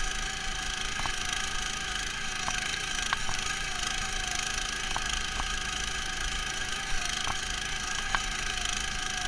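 Neva MS-1 walk-behind tractor's engine running at a steady speed, heard muffled through a protective camera case. Scattered short clicks or knocks come through at irregular moments.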